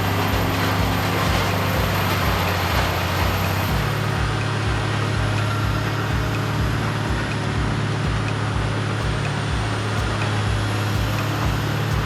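Morbark 1100 tub grinder running on its 600 horsepower Cat diesel engine: a steady heavy rumble with a regular throb about three to four times a second, shifting slightly about four seconds in.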